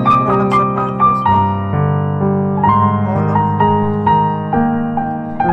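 Background piano music: a gentle melody of single notes over sustained lower chords.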